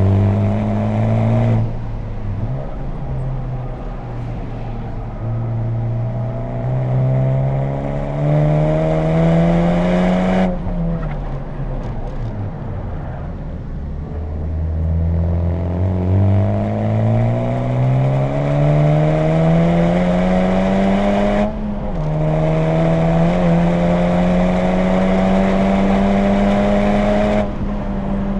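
Honda Civic Type R's turbocharged four-cylinder through an HKS Legamax Premium exhaust, driven hard on track. The engine note climbs under throttle and drops sharply at lifts or gear changes about two, ten and a half, twenty-one and a half and twenty-seven and a half seconds in. It sinks away after the change at ten and a half seconds before climbing again, and holds nearly steady between about twenty-two and twenty-seven seconds.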